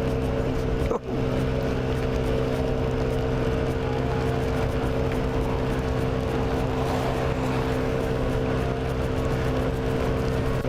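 Honda Ruckus scooter's 49 cc single-cylinder four-stroke engine running at a steady speed under way, with wind and rain noise.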